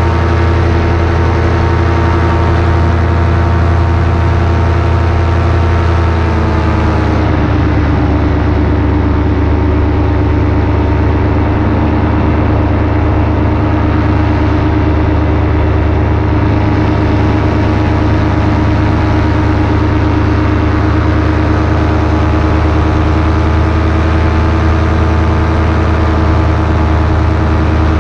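Paramotor engine and propeller running steadily at close range. About seven seconds in the engine slows and its pitch drops, then it runs steady at the lower speed.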